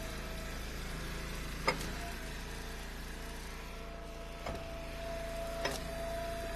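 Engine of an Eastonmade hydraulic wood splitter running steadily, with a few sharp knocks of wood at about 1.5, 4.5 and 5.5 seconds.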